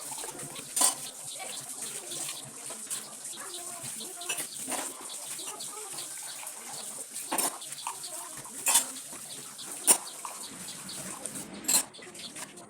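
Dishes and utensils clinking and knocking at a kitchen sink, with water running.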